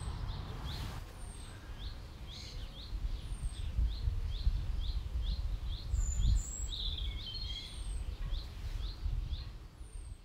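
Small songbirds singing outdoors: one repeats a short chirp about twice a second while another gives thin, high, falling whistles every second or two, with a busier flurry of notes around the middle. An uneven low rumble runs underneath.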